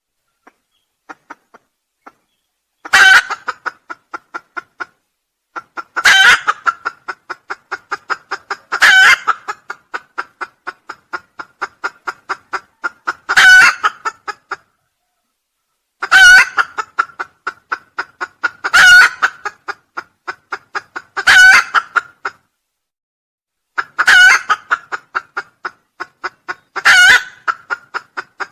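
Junglefowl crowing, a loud call repeated about every three seconds, nine times. Each crow is followed by a run of short, quick notes that fade away.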